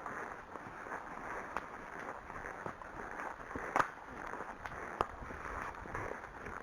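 Ridden horse moving along a track: a steady noise of hooves and movement, with three sharp clicks, the loudest near the middle.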